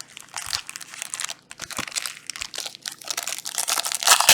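Plastic trading-card pack wrappers crinkling and crackling as card packs are handled and torn open, in an irregular run of crackles that grows louder near the end.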